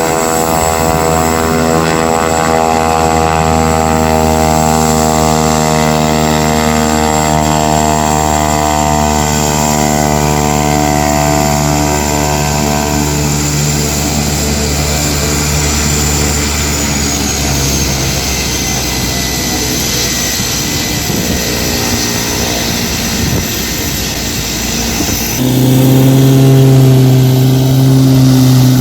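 A skydiving jump plane's propeller engine running loud, with a high whine over it, its pitch slowly falling as the plane moves. A little before the end the sound switches abruptly to a louder, lower steady hum.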